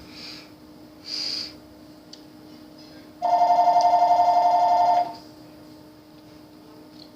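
A phone ringing: one trilling two-tone ring lasting about two seconds, starting about three seconds in, the signal of an incoming call. A short hiss comes about a second in.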